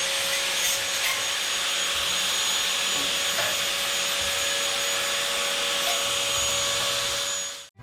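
Angle grinder running steadily against steel, a continuous harsh hiss over a steady motor whine, cutting off abruptly near the end.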